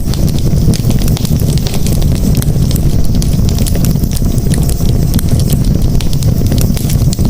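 Campfire burning: a steady low roar of flames with frequent small crackles and pops.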